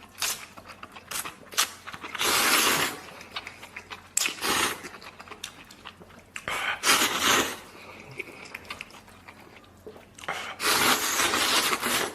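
Instant noodles slurped in broth: four long noisy slurps, with chewing and small mouth clicks between them.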